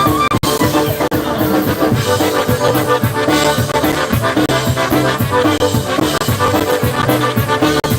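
Live polka band playing, brass horns to the fore with accordion over a steady drum beat.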